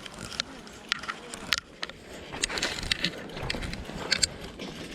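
Irregular crunching steps and sharp clicks of people walking and pushing bicycles up a steep dirt trail.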